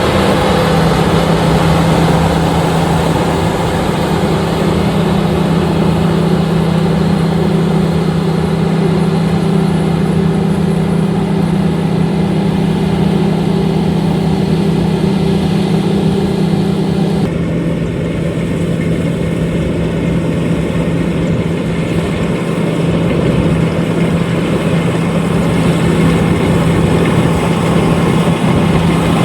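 LOVOL RG130EVO combine harvester running steadily with a constant engine hum. About seventeen seconds in the sound changes abruptly, losing some of its low hum and upper hiss, then carries on steadily.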